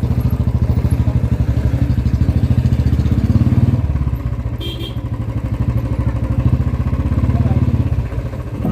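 Motorcycle engine running while riding, a fast steady throb that grows louder about three seconds in and then eases off.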